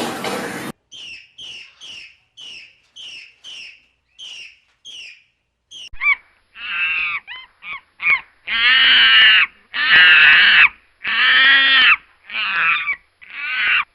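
A bird calling. First comes a run of short, evenly spaced high calls, then a series of louder, harsh, drawn-out calls about a second long each.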